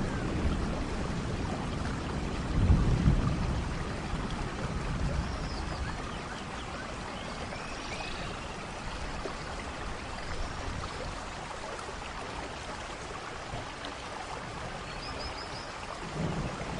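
Steady tropical rain falling. Scattered short bird chirps come every few seconds, including a quick run of four notes near the end. A low rumble swells about three seconds in and again at the very end.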